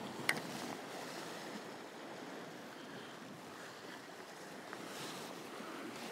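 Sea waves washing steadily against a rocky shore, with a faint wind hiss. A single short, sharp click comes about a third of a second in.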